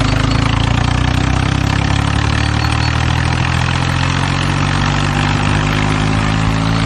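Tractor engine running steadily, a low even drone with a slight drift in pitch.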